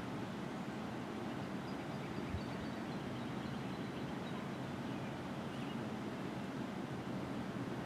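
Steady low outdoor background rumble with faint, high bird chirps, and a single soft low thump about two seconds in.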